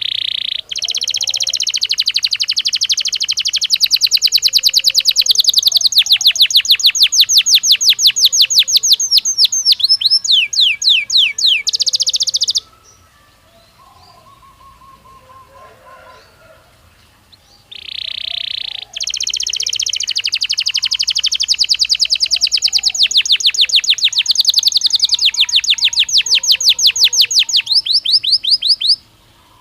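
Belgian canary singing two long song phrases of rapid, evenly repeated high trilled notes, each lasting about twelve seconds, the trills changing pace and pitch as each phrase runs on. A pause of about five seconds in the middle carries only faint, lower bird calls.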